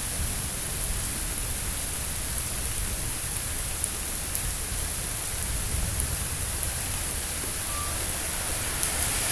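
Steady rain falling during a thunderstorm, an even hiss with a few scattered drip ticks and a low rumble underneath.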